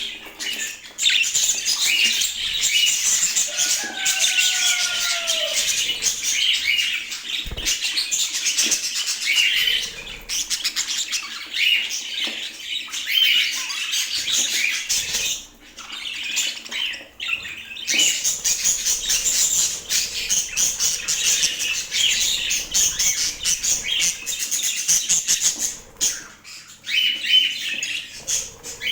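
Budgerigars chirping and warbling in continuous fast chatter, with a short falling whistle about four seconds in and a few brief pauses.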